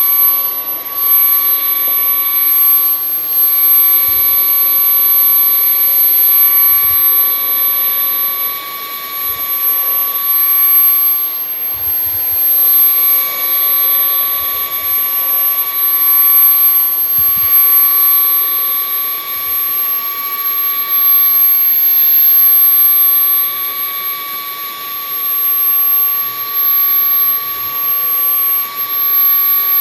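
Bissell CleanView XR Pet 300W cordless stick vacuum running steadily, a high motor whine over rushing air, as it sucks up sawdust from a rug. A few soft knocks come through along the way.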